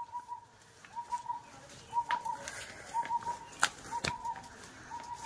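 A bird calling in the background: a short hooting note at a steady pitch, repeated about once a second. A few sharp clicks or taps stand out over it, the loudest two close together about two thirds of the way through.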